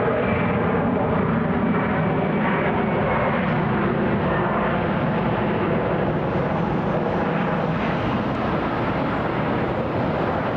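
Boeing 717's two rear-mounted Rolls-Royce BR715 turbofans at takeoff power: a steady jet engine sound as the airliner rolls down the runway on departure. It eases slightly near the end.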